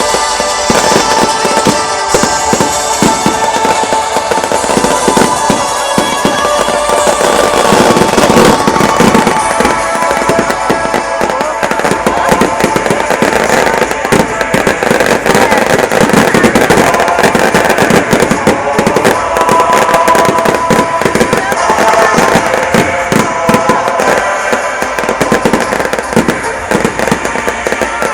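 Fireworks display going off in a dense, continuous barrage of rapid bangs and crackling, with music playing underneath.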